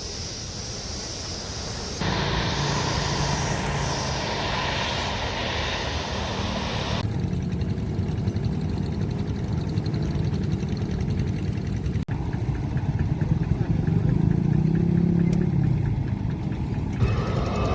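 Steady engine and vehicle rumble that changes character abruptly every few seconds, as separate recordings are cut together.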